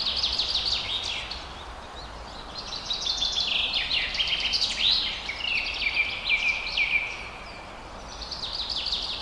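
Small birds chirping in fast, chattering phrases, in three bouts with short pauses between, over faint low outdoor background noise.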